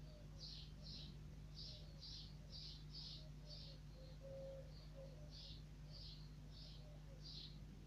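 Faint, repeated high chirps of small birds, about two a second, with a low steady hum underneath.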